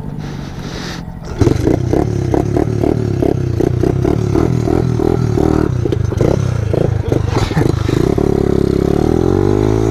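Pit bike engine running and being blipped over and over, then revving up with a rising pitch near the end.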